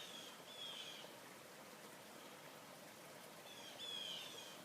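A bird calling outdoors: short, slightly falling, squeal-like notes, one about half a second in and a louder one near the end, over a faint background hiss.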